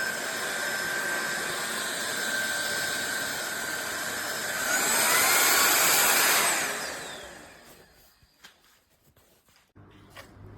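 Cordless stick vacuum cleaner running with a steady whine. About five seconds in it gets louder and changes pitch, then winds down and stops about two seconds later. A few faint clicks follow.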